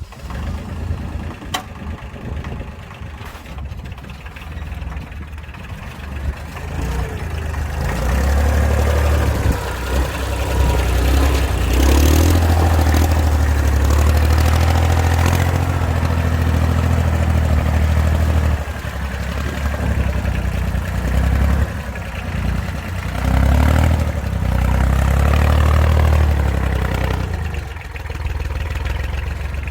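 Vehicle engine running while hauling a load of firewood. It gets louder from about eight seconds in, holds, and drops back briefly a couple of times.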